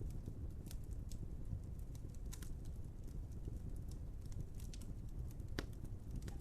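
Wood fire burning in a fireplace: a steady low rumble with scattered sharp crackles and pops, and one louder pop near the end.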